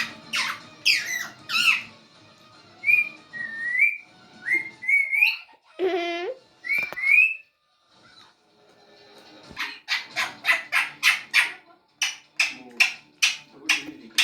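Pet parrot whistling and calling: short rising whistles through the middle, then a fast run of repeated calls, about four a second, in the last few seconds.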